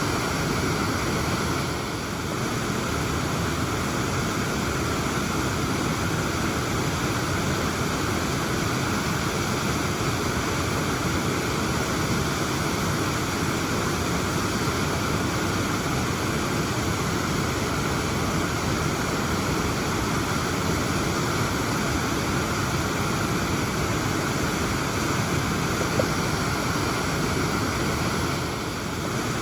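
Waterfall's falling water rushing in a steady, unbroken roar.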